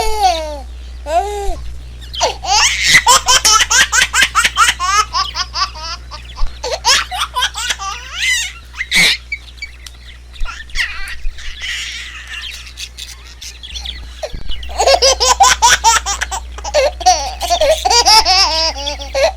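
Bursts of baby-like laughter mixed with fast, high-pitched peeping of chicks, over a low steady hum. The sound drops to a lull about halfway through, then comes back near the end.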